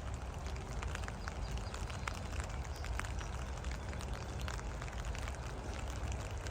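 Light rain pattering in many small scattered drops over a steady low rumble.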